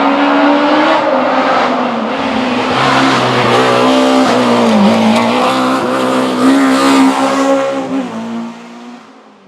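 Historic rally car's engine running hard at high revs. Its pitch dips briefly about halfway through, then the sound fades away quickly near the end as the car drives off.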